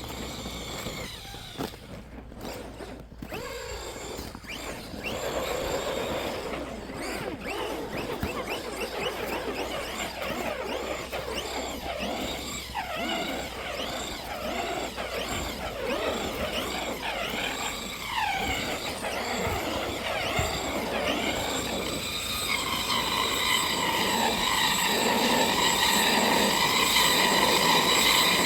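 Electric RC truck motor whining in repeated rising and falling sweeps as the throttle is worked, growing louder near the end.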